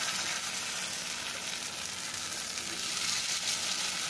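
Paniyaram batter frying in oil in the hollows of a paniyaram pan, a steady sizzling hiss.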